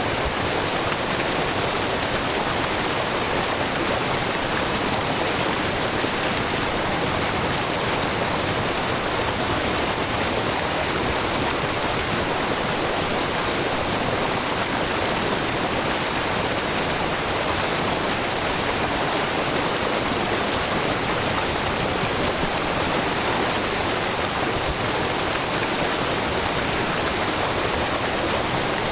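Low, wide curtain waterfall of spring water pouring over a rock face, with a brook babbling: a steady, even rush of water.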